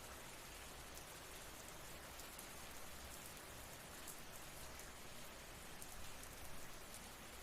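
Steady rain falling, a soft even hiss with scattered drop ticks.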